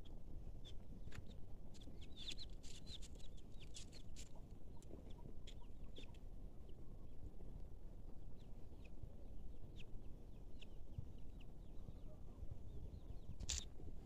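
Birds chirping in short, high calls, thickest in the first few seconds and sparser later, over a steady low rumble.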